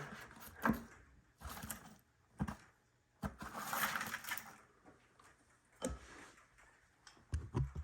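Scattered knocks and clicks with a stretch of rustling a few seconds in: handling noises at a snake enclosure during feeding.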